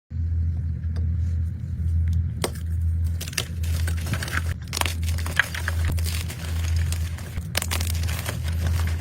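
Blocks of gym chalk being crushed and crumbled, played back at double speed: irregular crunching and crackling, sparse at first and dense from about two and a half seconds in, over a steady low hum.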